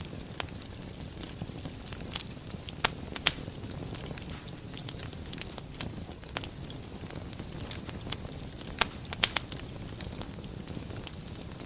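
Wood fire burning in a fireplace, a steady low rumble of flame with irregular sharp crackles and pops, which bunch together about three seconds in and again near the end.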